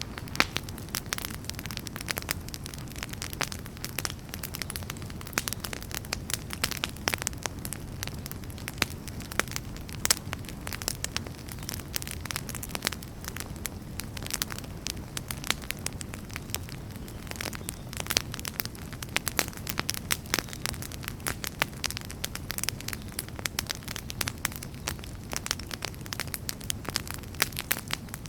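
Wood fire burning in a fireplace, with a steady low rumble of the flames and frequent sharp crackles and pops of the logs.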